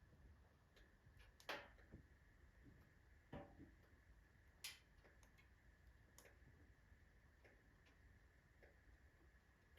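Oak logs burning in a fireplace stove: faint, sparse crackling with a few sharper pops at irregular intervals.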